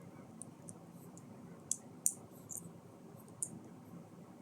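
Small plastic LEGO pieces being handled and pressed together: about half a dozen short, sharp clicks scattered through a few seconds, the loudest two close together about two seconds in.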